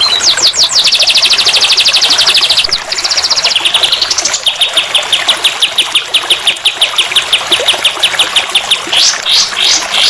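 Songbird tutor (masteran) song: fast high trills, a rising sweep, then a long even run of quick repeated notes and a few falling notes near the end, over the steady sound of trickling water.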